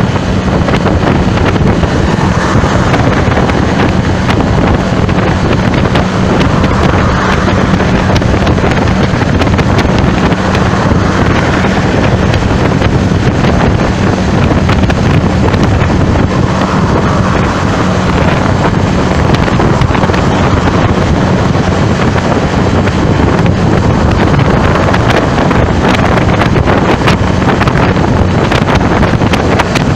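Wind buffeting the microphone in a loud, steady rush, with slow swells and a low steady hum underneath.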